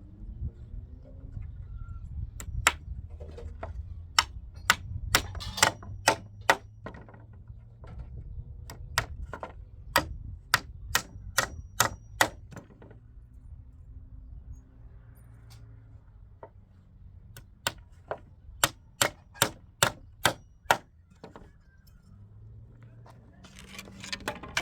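Hammer blows in three runs of sharp strikes, two to three a second, with pauses between the runs.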